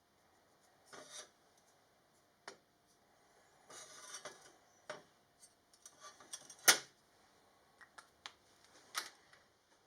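Scattered clicks, knocks and short scrapes of metal parts and tools being handled on a workbench, with a single sharp clack about two-thirds of the way in as the loudest sound.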